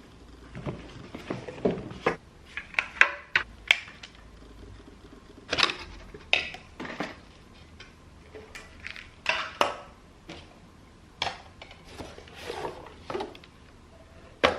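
Dishes and utensils being handled: a string of scattered clinks and knocks, some ringing briefly.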